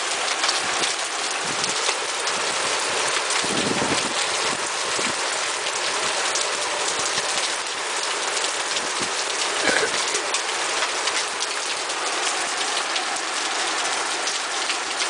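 Hailstorm: heavy rain and hail pelting down in a steady, dense patter flecked with many small ticks.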